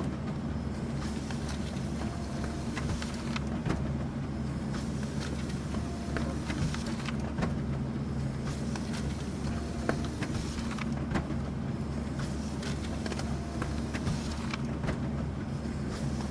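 Office printer running: a steady motor hum with scattered clicks as paper feeds through, and a brief faint tone every few seconds.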